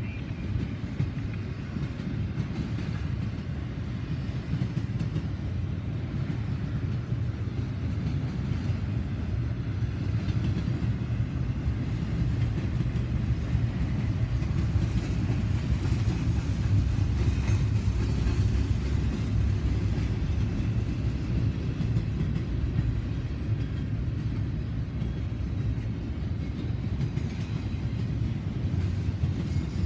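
Double-stack intermodal container train rolling past: a steady low rumble of steel wheels on the rails.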